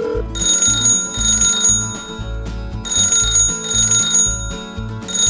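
Telephone ringing in a double-ring pattern, three pairs of high bell-like rings, over background music with a steady beat.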